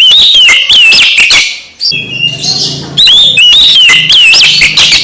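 Oriental magpie-robin (kacer) singing loudly: two runs of rapid, sharply gliding whistled notes, broken by a short pause about halfway through.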